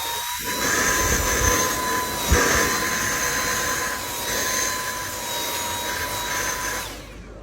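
A small motor running with a steady high whine and rushing air, cutting off near the end; a single thump about two seconds in.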